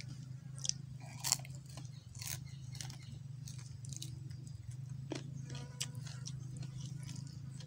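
Close-up chewing and crunching of grilled chicken feet: many short wet clicks and crackles, the loudest two early on, over a steady low hum.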